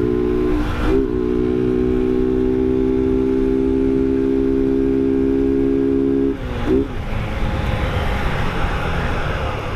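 Motorcycle engine running at a steady pitch while riding, with a short break about a second in. About six seconds in the steady note cuts off, leaving road and wind noise.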